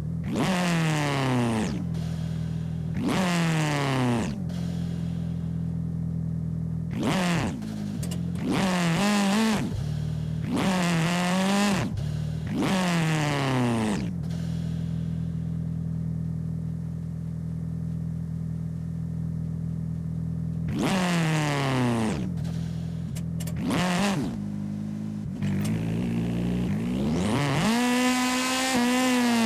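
Video-game car engine running steadily with repeated sharp revs, each one sweeping up and then falling away in pitch over about a second. There are bursts of revs in the first half and again near the end, with a longer rev at the end.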